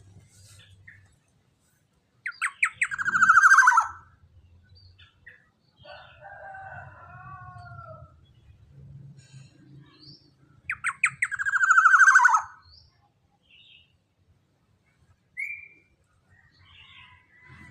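Young black-naped oriole (kepodang) giving two loud, harsh calls that slide downward, about two seconds in and again at about eleven seconds. Between them come softer warbling notes, and a short whistle comes near the end.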